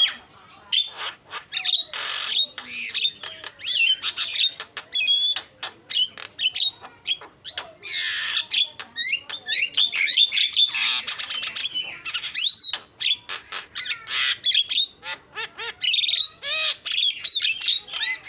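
Javan myna (jalak kebo) calling without pause: a busy chatter of squawks, whistled slides and rapid clicking notes, broken by short gaps.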